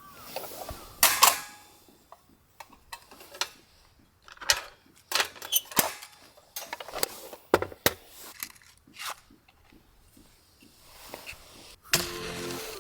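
Irregular sharp clicks and knocks, a few close together, like hard objects being handled and set down. Background music comes in near the end.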